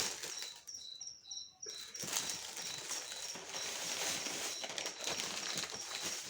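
Plastic packaging rustling and crinkling as it is handled, a dense rustle starting about two seconds in. A small bird chirps over and over in short, evenly spaced high notes during the first two seconds.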